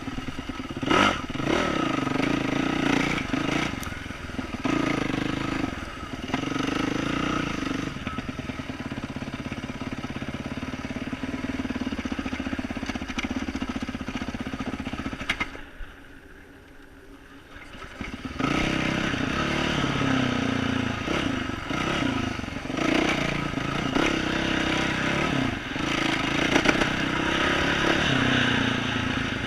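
2012 Yamaha YZ450F dirt bike's single-cylinder four-stroke engine with an aftermarket exhaust, revving up and down under throttle on a trail ride. About halfway through it drops to a low, quiet spell for about three seconds, then revs back up.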